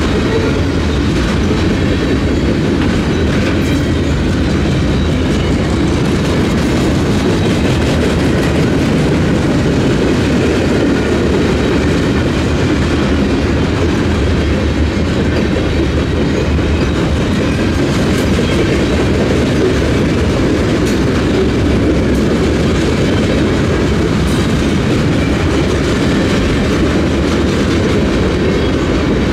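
Union Pacific freight train rolling past: a steady, loud rumble of freight car wheels on the rails, with a few faint clicks.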